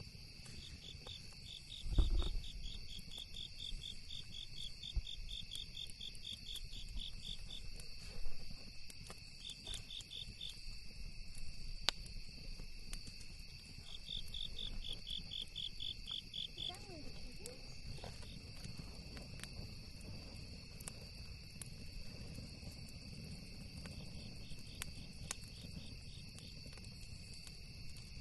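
Crickets chirping: a steady high-pitched insect chorus, with a nearer cricket trilling in rapid pulses in bursts of a few seconds. Scattered small crackles and pops from the campfire, a low rumble underneath, and a single thump about two seconds in.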